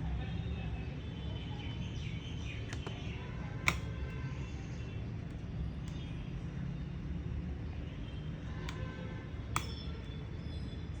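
Sharp clicks of small laptop parts being handled and fitted back together, the two loudest about four seconds in and near the end, over a steady low rumble.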